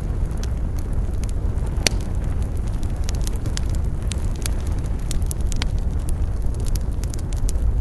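Campfire crackling and popping: irregular sharp snaps, the loudest about two seconds in, over a steady low rumble.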